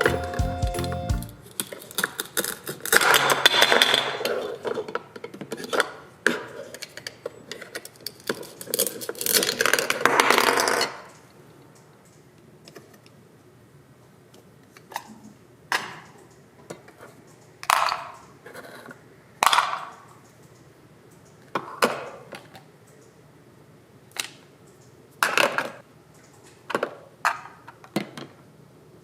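Plastic toy kitchen pieces being handled. For about the first ten seconds there is a dense stretch of rustling and clattering, then single clicks and knocks follow every second or two.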